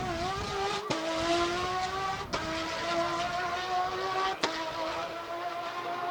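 Porsche GT3 rally car's flat-six engine accelerating hard through the gears: three upshifts, each marked by a sharp crack and a drop in pitch, with the revs climbing again after each.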